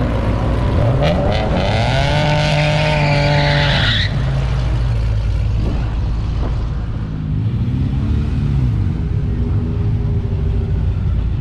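Drag car engine revving up and held at high revs for about two and a half seconds, then cut off sharply. A few seconds later a lower rev rises and falls, over a steady engine rumble.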